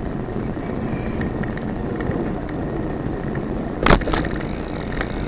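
Steady rumble of wind and tyre noise while riding a bicycle, with a sharp click about four seconds in.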